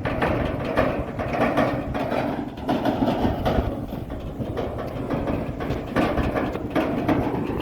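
Tractor running with a continuous rattle and clatter.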